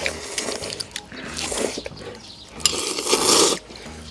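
Ramen noodles being slurped: a short slurp about a second and a half in, then a longer, louder one about three seconds in.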